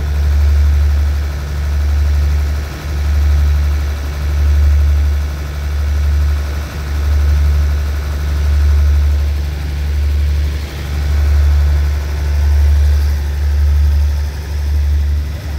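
Steady low idling hum of a stationary diesel passenger train standing at the platform, swelling and easing every couple of seconds, with a faint steady whine above it.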